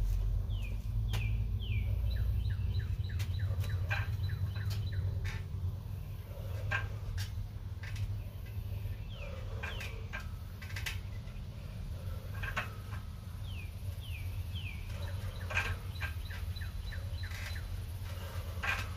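A bird singing: groups of short chirps that slide downward in pitch, repeated several times, over a steady low rumble with scattered sharp clicks.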